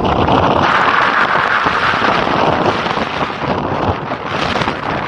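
Loud, steady rushing of wind buffeting a body-worn camera's microphone while moving at speed, dipping briefly about four seconds in.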